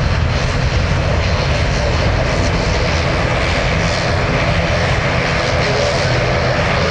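Jet airliner's engines, a loud steady roar with a deep rumble underneath.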